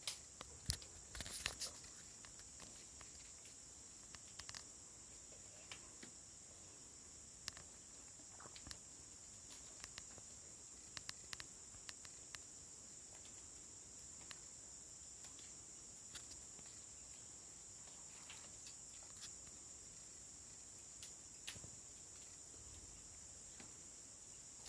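Faint, steady high-pitched insect chirring, with scattered sharp clicks throughout and a short cluster of louder clicks about a second in.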